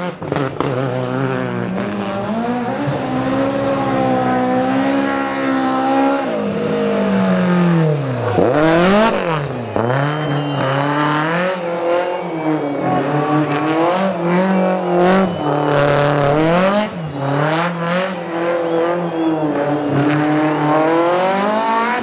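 Rally car engine revving hard, its pitch climbing and dropping again every second or two, with two sharp drops about eight and ten seconds in, and tyres squealing.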